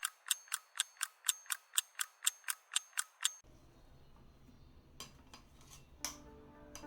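A rapid, even ticking, about four ticks a second, stops about three and a half seconds in; a few faint, scattered clicks follow.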